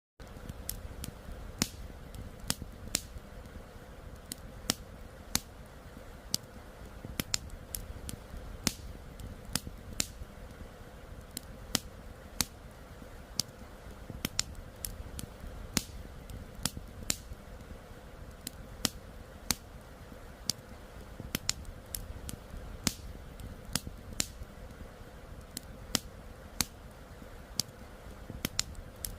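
Wood campfire crackling with irregular sharp pops and snaps, about one or two a second, over a steady low rush of flowing river water.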